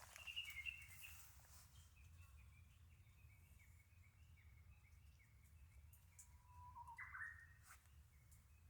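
Faint birdsong: a run of short repeated chirps, then a louder call near the end that begins with a low held note and leaps to higher notes.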